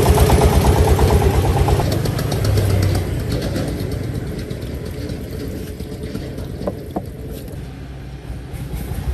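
Diesel engine running with a fast, even beat of firing strokes. It has just been started, and it eases down in loudness over the first few seconds, then settles into a steadier run.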